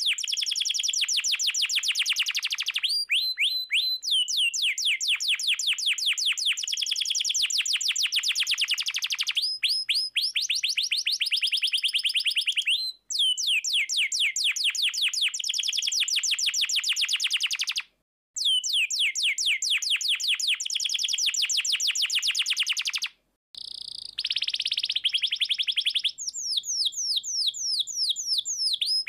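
Domestic canary singing long, rapid rolling trills of quickly repeated high notes. The runs break off for a moment three times and change phrase, with one shorter, thinner passage near the end.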